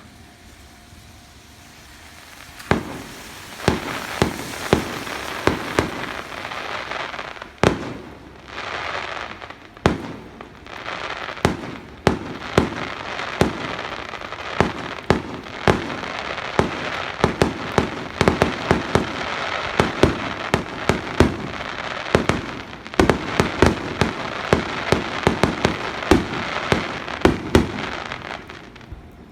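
Aerial fireworks display: after a quiet opening, a dense barrage of sharp bangs begins about three seconds in over a continuous hissing crackle, with a short lull partway through.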